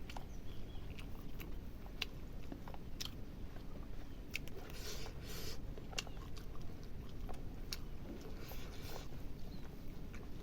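A person chewing and biting food close to the microphone, with scattered short mouth clicks and smacks throughout.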